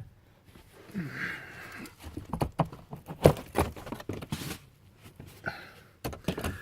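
Handling noise: a rustle about a second in, then a run of knocks and clicks, the loudest about three seconds in.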